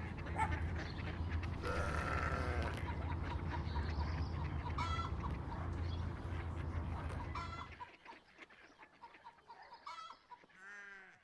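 Birds calling in short pitched calls over a steady low hum; the hum stops about eight seconds in, leaving a few last calls near the end.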